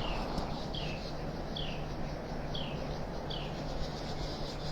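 A bird calling over and over with short falling chirps, about one a second, over a steady outdoor hiss.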